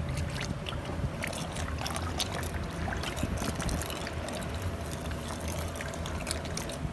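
Water draining out of a bao steamer's water tank through the hose after its front drain valve is opened, a steady outflow over a low rumble.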